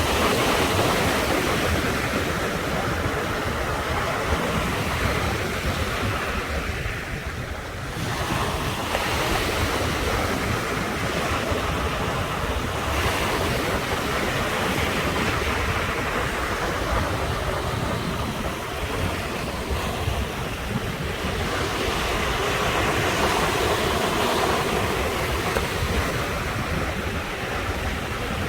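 Ocean surf washing onto the shore in continuous waves that swell and ease, with a brief lull about a quarter of the way through.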